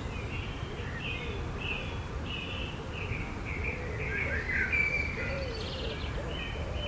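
Forest birdsong: several songbirds chirping in short, repeated phrases, with lower wavering notes beneath and a steady low background hiss.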